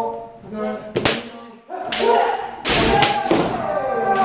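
Kendo sparring: bamboo shinai cracking sharply several times against each other and against armour, with drawn-out kiai shouts and heavy thuds of stamping feet on a wooden floor.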